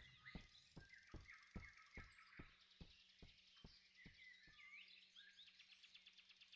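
Near silence: faint birds chirping in the background, with a row of soft ticks about two to three a second that slow, fade and stop about two-thirds of the way through.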